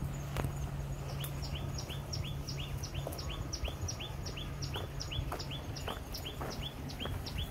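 A bird singing a long, even run of short falling whistled notes that alternate high and low, several a second. Faint footsteps sound beneath it.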